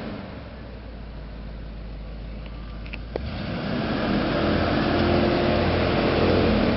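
Buick Riviera's engine running, quieter for the first three seconds, then louder and steady from about three seconds in.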